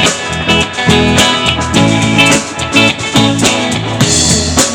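Live band playing an instrumental passage between sung lines: guitar chords over a steady drum beat, with no vocals.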